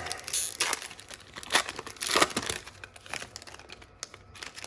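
Trading card pack wrapper being torn open and crinkled by hand: a run of irregular crinkling and tearing rustles, the loudest about two seconds in.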